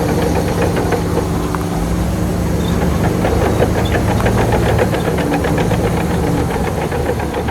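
Heavy diesel construction machine running steadily under load, with a fast, regular metallic clatter over the engine.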